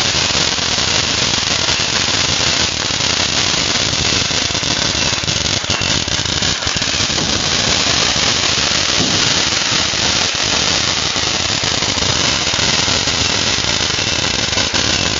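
TNT Living The Dream consumer firework finale firing a dense, unbroken barrage of rapid pops and crackling.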